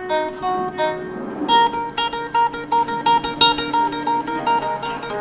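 Plucked guitar notes in a fast repeating pattern over a held low note, with a plucked, zither-like tone.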